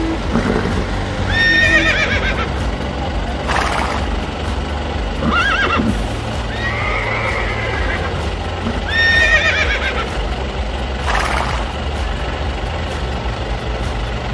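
Horse whinnying repeatedly, about six calls roughly two seconds apart, over a steady low hum.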